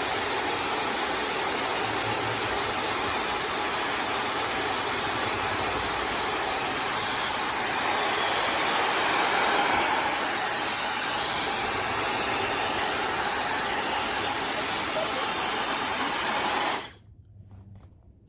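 Dyson Supersonic hair dryer blowing a steady rush of air, swelling slightly louder about halfway through, then switched off, the sound cutting out suddenly near the end.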